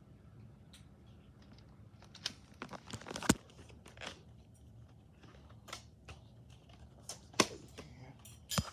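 Handling noises from a plastic VHS tape case: a run of crinkling, rustling and sharp plastic clicks, with the loudest snaps a little over three seconds in, about seven seconds in and near the end.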